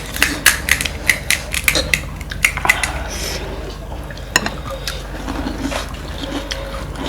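Quick sharp clicks and clinks through the first three seconds, then only a few, with faint liquid sounds: panipuri being eaten, crisp puri shells cracking and tableware clinking.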